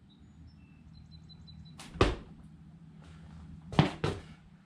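A small bird trapped in a garage: a few faint, short high peeps, then sharp swishing thuds as it flutters and bumps into things, once about two seconds in and twice near the end.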